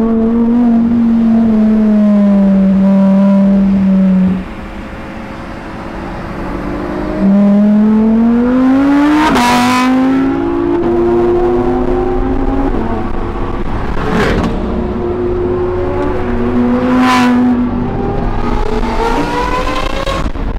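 Sports car engine revving hard. A high, steady note sags and then backs off about four seconds in, before the engine climbs again in pitch and drops back with each gear change. Sharp bursts come at about nine and a half, fourteen and seventeen seconds in.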